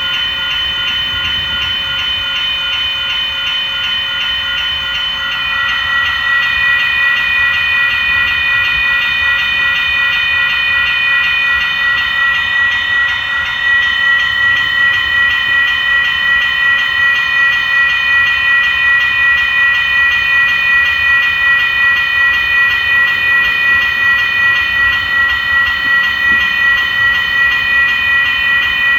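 Train passing with several steady high-pitched tones throughout, growing louder about five seconds in and pulsing rhythmically from about halfway.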